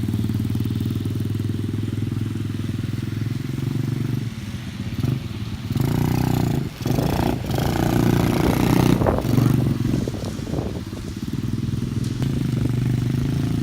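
A small dirt-bike engine running. Its note holds steady, turns uneven and changing in pitch between about four and ten seconds in, then settles back to a steady drone.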